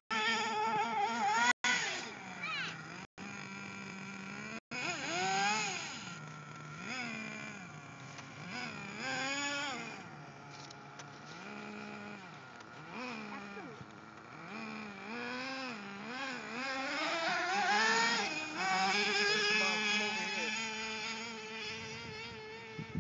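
Small engine of a radio-controlled truck, revving up and down again and again, with a thin buzzing sound. The sound cuts out completely for an instant three times in the first few seconds.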